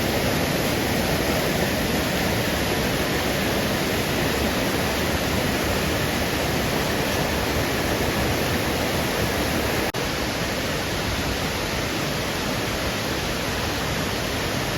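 Waterfall rushing: a loud, steady wash of falling water, with a momentary drop in level about ten seconds in.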